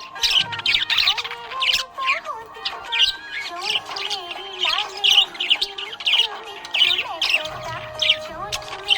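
Budgerigars chirping and warbling in a rapid, continuous chatter of short high chirps.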